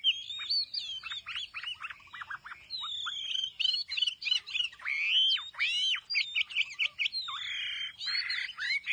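Chinese hwamei (hoạ mi) singing a fast, varied run of whistled phrases, full of notes that sweep up and down. Near the end it adds a couple of harsh, raspy notes.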